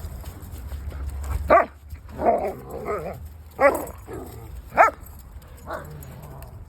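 Dogs barking during rough play: three short, sharp barks, with a rougher stretch of vocalising between the first two.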